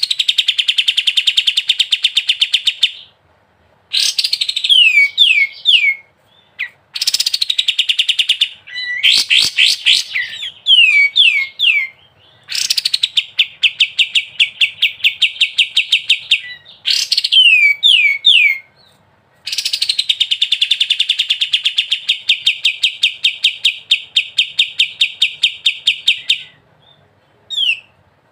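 Kapas tembak, a bulbul, singing in long rattling trills of rapid repeated notes, each several seconds long, alternating with short runs of three or four quick falling whistles, in phrases separated by brief pauses.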